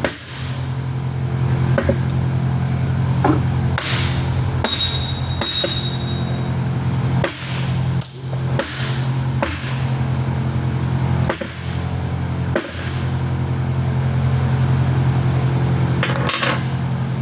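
Ball-peen hammer striking the steel tops of plug valves at an irregular pace, to knock them loose; many of the blows leave a short, high metallic ring. A steady low hum runs underneath.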